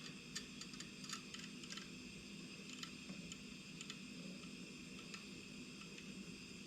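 Faint, scattered light clicks and taps from small wooden pieces being handled and fitted, over a steady background hum.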